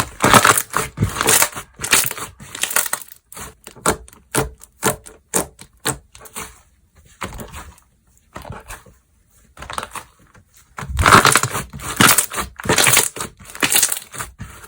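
Slime being squeezed and pressed by hand, giving quick runs of clicks and pops: a dense stretch at the start and again near the end, with scattered single pops between.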